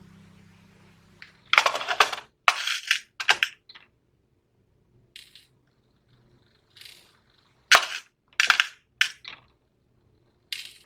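Small hard objects clinking and clattering on a work surface as polymer clay earrings are made: about ten short, sharp clatters spaced irregularly, some in quick clusters, after background music fades out at the start.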